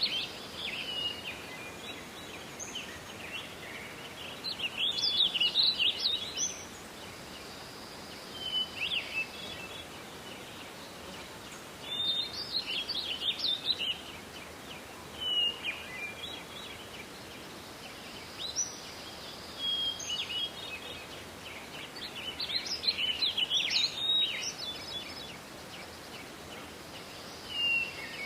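Forest songbirds singing short, twittering phrases, one every few seconds, over a steady background hiss of forest ambience.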